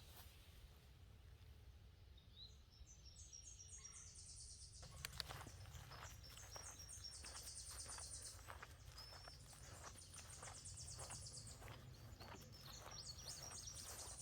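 Faint, high, rapid trilled bird song, a phrase repeated every two or three seconds, with footsteps on a trail starting about five seconds in.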